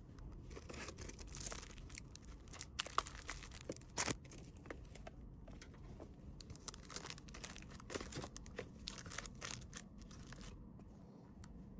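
Plastic packaging crinkling and rustling as a packed item is handled, with a few sharper clicks and taps.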